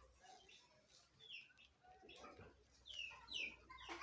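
Faint birds chirping: short calls that fall in pitch, repeated every second or so, with a few lower, rougher calls mixed in.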